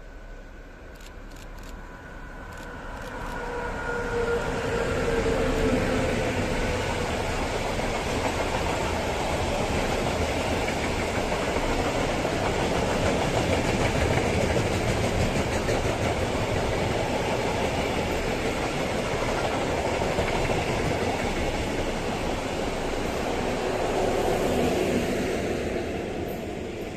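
Electric-hauled freight train of open wagons loaded with scrap metal passing close by. A whine that falls slightly in pitch comes as the locomotive goes by in the first few seconds, then the wagons roll past with a steady rumble of wheels on rail that fades near the end.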